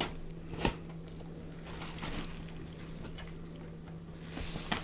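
Soft, wet close-up eating sounds: quiet squishes and chewing with a few small clicks, over a low steady hum.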